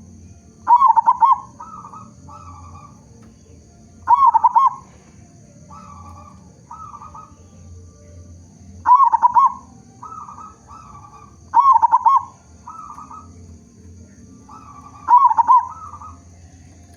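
Zebra dove (perkutut) in full song: loud, rapid rippling coo phrases every few seconds, five in all, each followed by a few softer, shorter coos.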